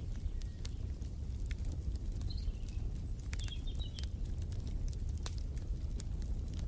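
Wood fire crackling, with many sharp pops and snaps over a steady low rumble. A few short bird chirps come in near the middle.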